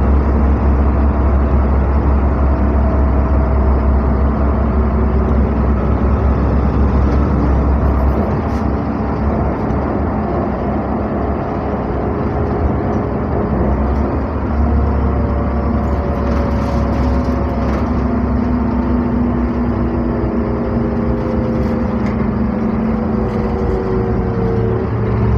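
NefAZ-5299 city bus heard from inside the cabin while driving, engine and driveline running. A deep low drone eases off about a third of the way through and comes back several seconds later, and a whine rises in pitch near the end as the bus picks up speed.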